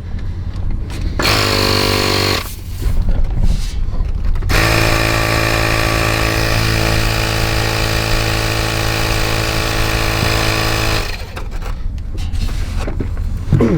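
A power tool running in two bursts with a fast, even buzz: a short burst about a second in, then a steady run of about six seconds that cuts off near the end.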